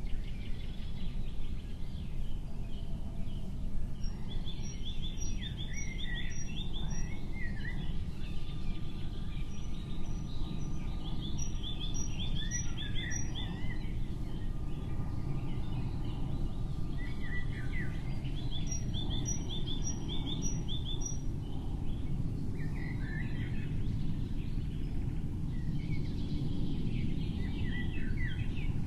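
Small birds chirping and twittering over a steady low rumble of background noise. Three times, a bird gives a run of high, evenly spaced short notes lasting a couple of seconds.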